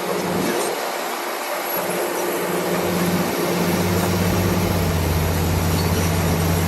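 Komatsu D65PX crawler bulldozer working: a steady rushing noise with the diesel engine's low drone, which grows stronger about two seconds in and then holds steady.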